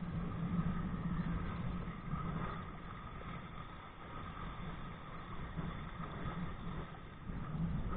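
Steady rushing of wind and water heard from a body-worn camera on a kite-pulled kayak under way, with a low hum running through it and the level rising and falling slightly.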